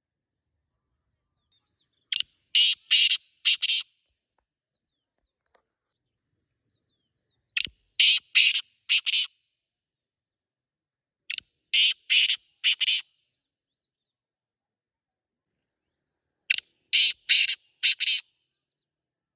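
Black francolin calling: four harsh, grating phrases roughly five seconds apart, each a short opening note followed by three or four longer harsh notes.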